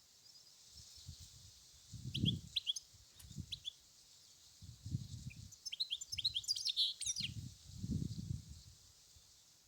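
European goldfinch singing: two runs of quick, twittering high chirps and trills, about two seconds in and again around six to seven seconds, over a steady high hiss. Low muffled thumps come and go underneath.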